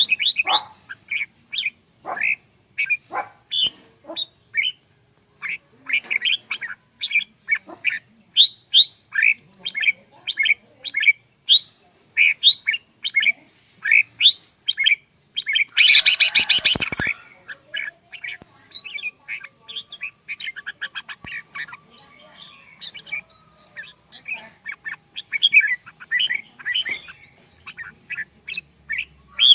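Red-whiskered bulbuls singing: a long run of short, quick whistled notes, broken about halfway through by one loud, harsh call lasting about a second.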